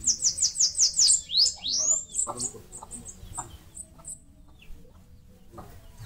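Bananaquit singing: a fast, high run of short down-slurred notes in the first second, then a couple of rising whistles and scattered thin chips.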